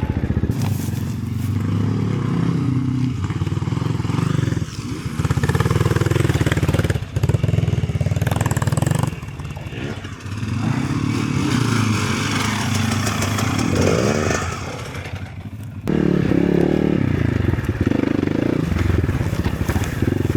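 Enduro motorcycle engine revving up and easing off over and over as the bike is ridden, with brief drops in engine note about five, ten and fifteen seconds in.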